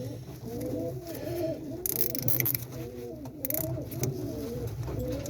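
Several domestic racing pigeons cooing at once in a loft, their overlapping coos running on steadily. Two short hissy noises, such as a rustle, come about two and three and a half seconds in.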